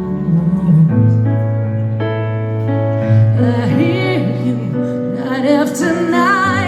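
Live piano ballad: sustained keyboard chords, with a woman's singing voice with vibrato coming in about halfway.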